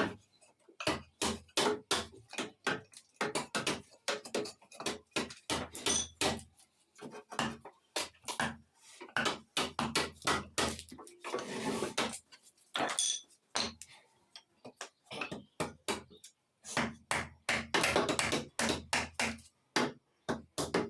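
Hammer blows on wood in quick, irregular runs of several knocks a second, with a short scraping stretch about twelve seconds in.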